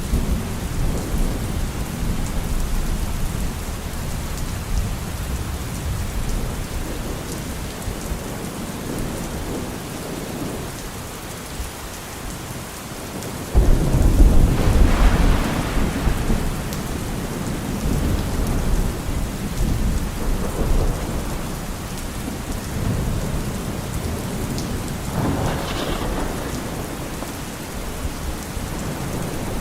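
Steady rain with rolling thunder. About halfway through, a sudden loud thunderclap breaks into a rumble that dies away over a few seconds, and a weaker rumble follows later.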